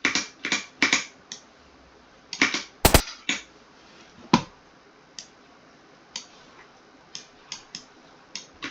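Computer mouse and keyboard clicks while editing on a computer: about a dozen short, sharp clicks at irregular spacing, with a loud cluster near the start and one louder click about three seconds in.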